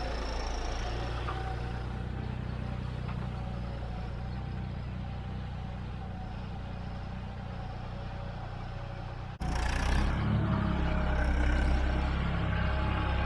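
John Deere 5310 tractor's three-cylinder turbo-diesel engine running steadily, with a faint high turbo whistle above the engine note. About nine seconds in, the sound breaks off for an instant and comes back louder.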